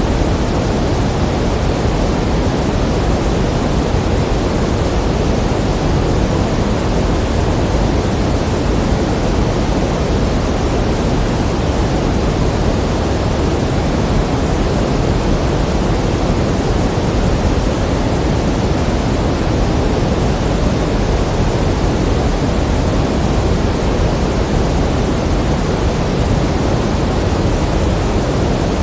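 Steady pink noise: an even, unbroken hiss weighted toward the low end, with no change in level.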